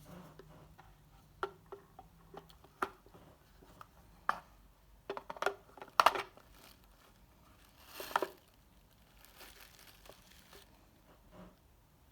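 Hands handling materials at close range: scattered sharp clicks and taps with crinkling, a quick run of them about five to six seconds in (the loudest), and a brief rustling scrape about eight seconds in.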